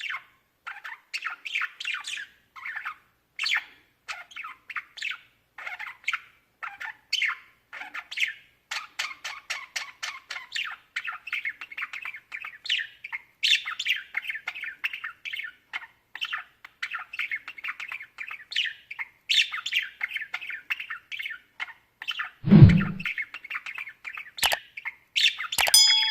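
Budgerigars chattering and chirping in quick, continuous runs of short calls. A loud thump comes about three-quarters of the way through, and a sharp click follows.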